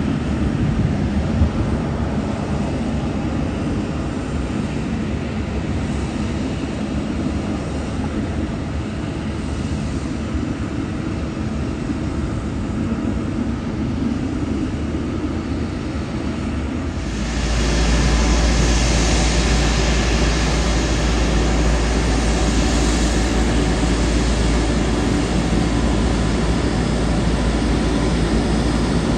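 Jet airliner engine noise, a steady rushing rumble that turns abruptly louder and deeper about two-thirds of the way through.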